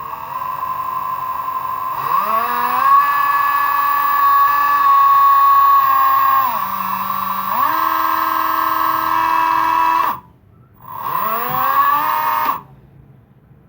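750 W e-rickshaw BLDC motor running with a whine of several tones that climbs in pitch as it speeds up about two seconds in, dips for about a second, climbs again, then cuts out; it starts up once more briefly and stops near the end. This is a faulty motor with a sound problem: water had got inside and its rear bearing had failed.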